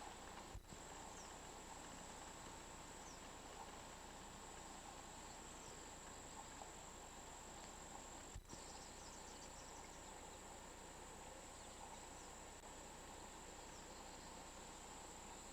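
Faint, steady chorus of crickets with a constant high-pitched trill, and two brief clicks, one about half a second in and one a little past the middle.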